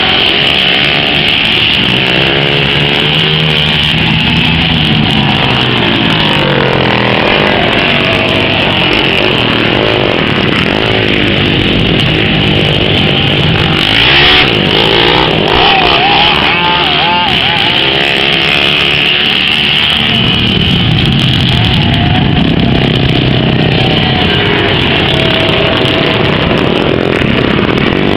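Several race car engines running hot laps, loud and continuous, their pitch repeatedly rising and falling as the cars accelerate and pass by.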